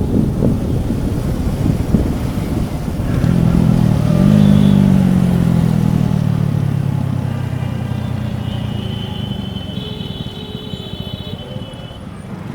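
TVS Apache RTR 4V's single-cylinder engine heard at the exhaust: a rough low rumble at first, then about three seconds in it revs up and its note falls slowly as the bike rolls off and slows. A faint high tone sounds above it near the end.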